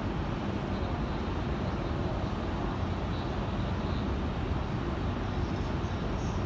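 Steady low hum and rumble of a stationary JR 285 series electric sleeper train, its onboard equipment running while it stands at the platform, under the general noise of a large station.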